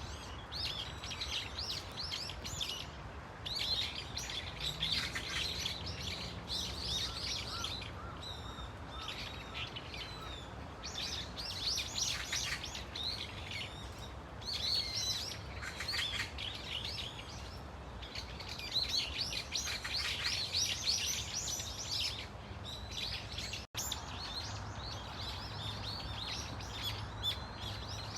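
A flock of brown-eared bulbuls calling together: many harsh, shrill, overlapping calls that sweep up and down in pitch, coming in dense bouts with short lulls between.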